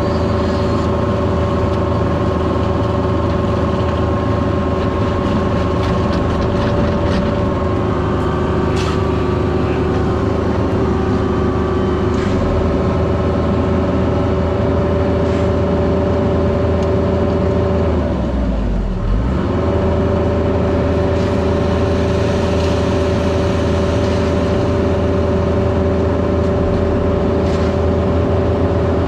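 Heavy-equipment diesel engine running steadily at high revs. About eighteen seconds in, the revs drop briefly and climb back.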